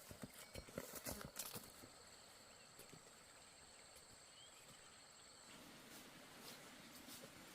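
A few light knocks in the first second or so, then faint, steady, high-pitched insect trilling that stops about two-thirds of the way through.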